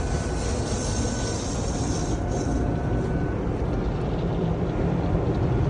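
Automatic car wash heard from inside the car: a steady, loud rumble of rotating brushes scrubbing the sides and water spray on the body, with a higher hiss that fades about halfway through.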